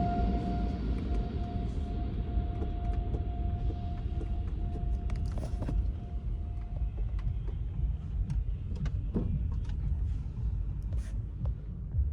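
Car wash tunnel equipment running: a steady low rumble with a motor whine that fades away over several seconds, and scattered clicks and knocks.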